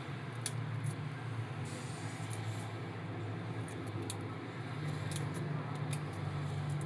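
Light clicks and taps of kitchen work, scattered and uneven, over a steady low hum such as an appliance or extractor fan.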